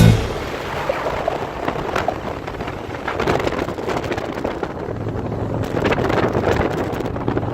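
Wind buffeting the microphone over a running motorcycle, with a steady low engine hum that sets in about five seconds in.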